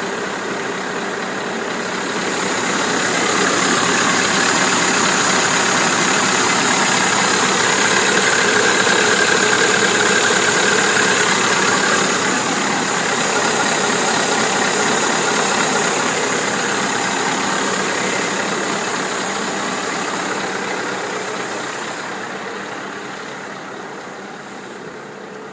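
Scania 164L truck's V8 diesel engine running at idle, the truck driven along at idle speed. It grows louder a few seconds in, holds steady, and fades away over the last few seconds.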